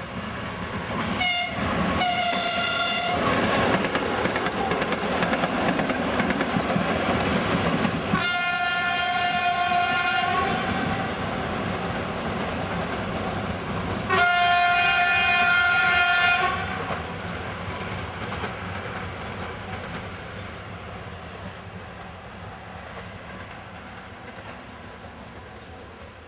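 Diesel train running along the track with steady wheel-and-rail noise. Its horn sounds two short blasts in the first few seconds, then two longer blasts of about two seconds each, around 8 and 14 seconds in. Afterwards the train noise gradually fades away.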